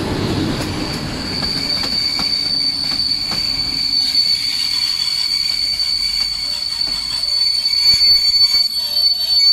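CFR passenger coaches rolling slowly past with a steady, high-pitched squeal from the wheels as the train brakes for its stop. Scattered clicks come from wheels crossing rail joints, and a low rumble fades after the first second.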